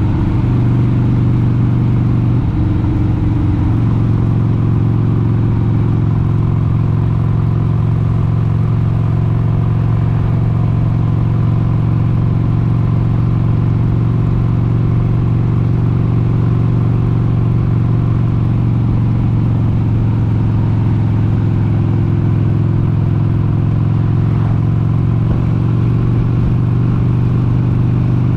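1996 Harley-Davidson XLH883 Sportster's air-cooled 883 cc Evolution V-twin running steadily at cruising speed on the road, with a brief change in engine pitch about three seconds in.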